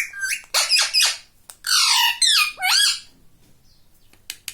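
Indian ring-necked parakeet giving a string of loud, squawking, chattering calls for about three seconds. After a short pause, a quick run of sharp clicks starts near the end.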